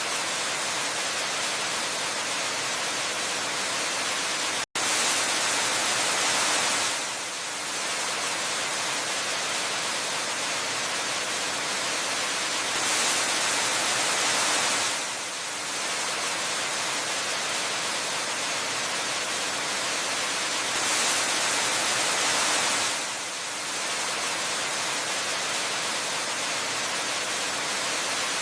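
Steady rushing of a waterfall, an even hiss of falling water that swells slightly louder about every eight seconds. It cuts out for an instant about five seconds in.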